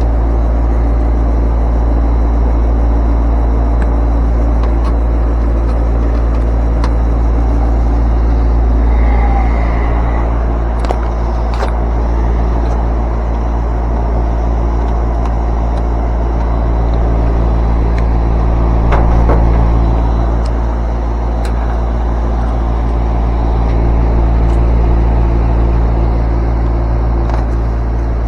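Air-conditioning outdoor unit running: a steady motor hum over a low rumble, with a few faint clicks.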